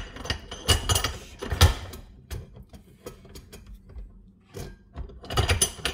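Metal clicks and clanks from handling the riding mower's deck height lift lever parts, in irregular clusters.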